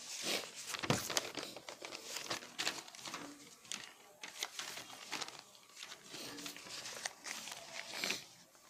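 Paper crinkling and rustling as it is handled, an irregular run of small crackles close to the microphone.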